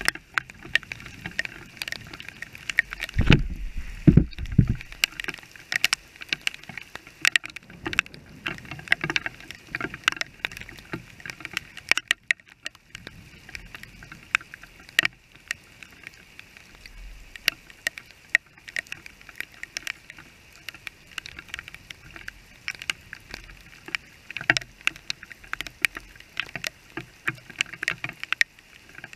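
Rain striking a small action camera's waterproof housing as dense, irregular sharp taps, over a steady hiss of rain on wet pavement. A brief loud low rumble comes about three seconds in.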